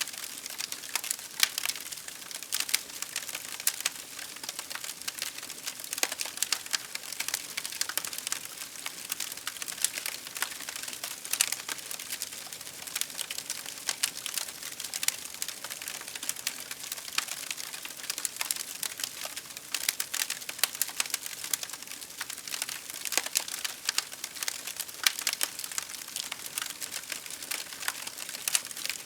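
Wood fire crackling in a fireplace: a steady hiss of burning with dense, irregular sharp pops and snaps.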